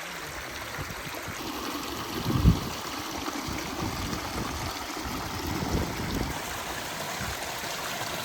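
Spring-fed mountain stream running steadily, with one low thump about two and a half seconds in.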